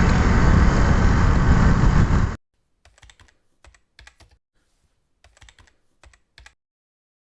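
Strong wind buffeting the microphone, a loud rumbling rush, cut off abruptly about two seconds in. After that there is near silence with scattered faint clicks and taps.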